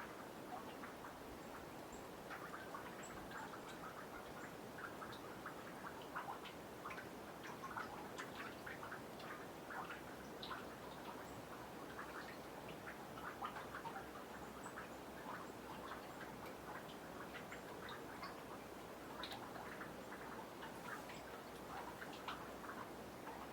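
Meltwater from snow on a boardwalk dripping into a nearly frozen pond: many small, irregular drips, several a second, over a faint hiss.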